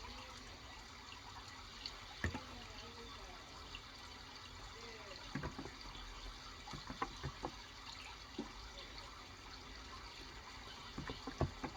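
Steady running water with scattered keystrokes, a few at a time, on a Cox Endeavor electro-capacitive 35g tenkeyless keyboard.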